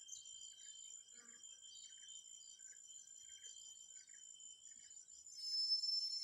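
Insects trilling steadily at a high pitch, with a soft short chirp repeating roughly twice a second. About five seconds in, a louder, higher insect drone starts up.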